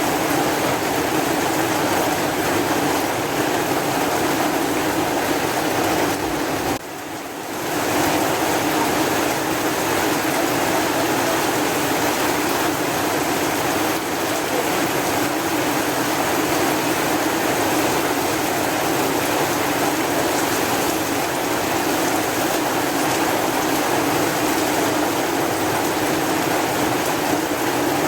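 Steady heavy rain, an even hiss, that dips briefly about seven seconds in.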